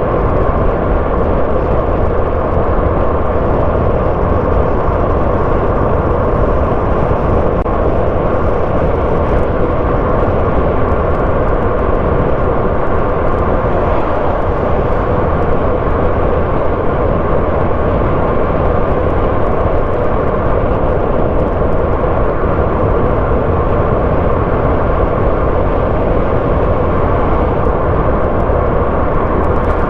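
A car driving along the road: a steady mix of engine and tyre-on-road noise that holds even throughout, with no distinct events.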